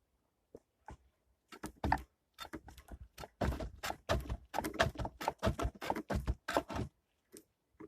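A quick, irregular run of knocks and scrapes, several a second, starting about half a second in and stopping about seven seconds in.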